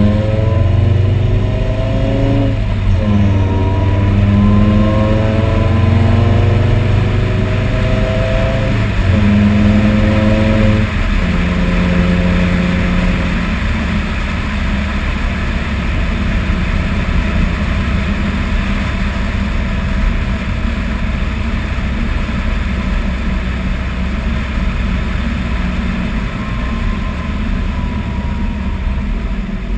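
Supercharged VW Rabbit 2.5-litre five-cylinder engine pulling up in revs, dropping about 3 s in and climbing again, then easing off about 11 s in to steady, lower running.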